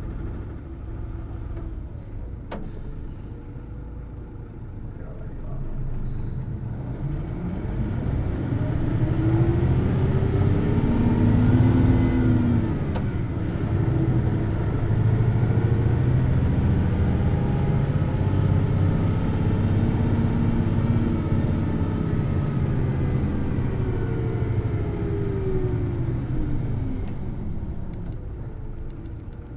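Hino Blue Ribbon City Hybrid bus accelerating: engine revs climb, dip briefly about twelve seconds in, climb again, then ease off near the end. The engine is run at high revs, and a faint high whine rises and falls with it. A single sharp click comes about two seconds in.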